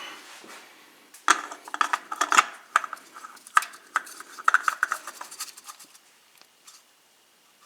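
Irregular light metallic clinks and rattles from handling a new spin-on oil filter, dying away about six seconds in.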